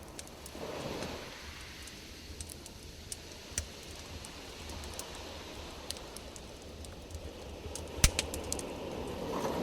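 Campfire crackling: irregular sharp pops and snaps, the loudest about eight seconds in, over a faint low rumble.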